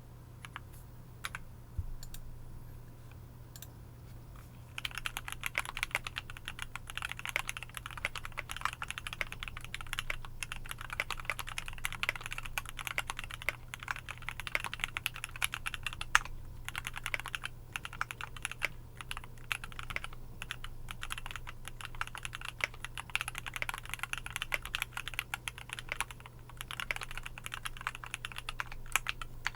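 Typing on a KBDFANS Tofu65 mechanical keyboard with a brass plate and Gateron GoldCap V2 linear switches: a few single key presses, then from about five seconds in a fast, continuous run of keystrokes broken by short pauses.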